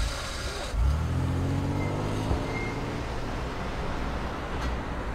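Car engine revving up as the car pulls away, its pitch rising from about a second in and then holding steady.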